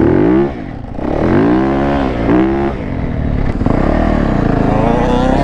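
Dirt bike engine revving: its pitch climbs and drops several times in the first three seconds, then holds steadier and wavers near the end.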